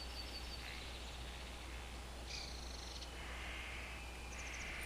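Faint background ambience: a steady low hum with a few faint, brief high-pitched chirps about two and a half seconds in and again near the end.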